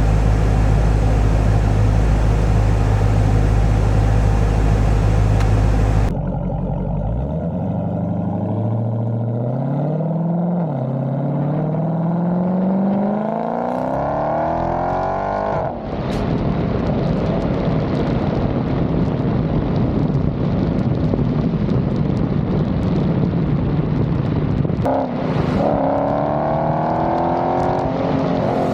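Dodge Scat Pack widebody's 6.4-litre HEMI V8 through a loud aftermarket exhaust, in edited clips. A steady low run, then after a cut the revs climb with the pitch rising, dip briefly at a gear change about ten seconds in, and climb again. After another cut it is steady running, and near the end the revs rise once more.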